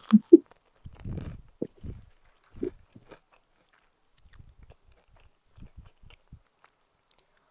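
Chewing and biting food, with irregular short mouth sounds. There is a brief vocal sound at the very start, and the chewing grows quieter after the first three seconds.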